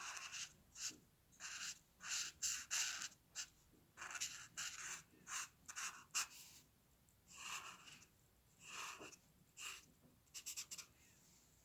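Drawing strokes on paper, a pencil or pen scratching in short irregular strokes with brief pauses between them.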